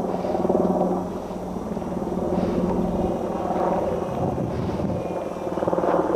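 Radio-controlled model Zero fighter in flight, its engine sound steady in pitch and swelling and fading as the plane flies around.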